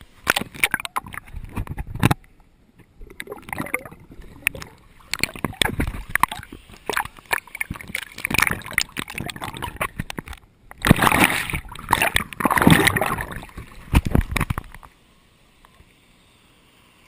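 Water splashing and sloshing close to the microphone in irregular bursts, with brief breaks; it dies away to quiet near the end.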